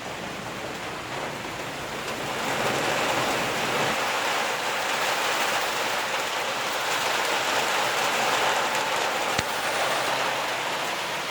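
Heavy storm rain falling in a steady hiss that grows heavier about two seconds in, with a single sharp click near the end.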